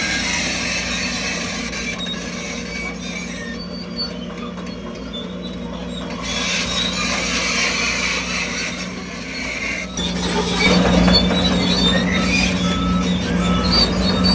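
Crawler bulldozer at work: the diesel engine running steadily under a high squealing from the steel tracks and undercarriage, getting louder about two-thirds of the way through.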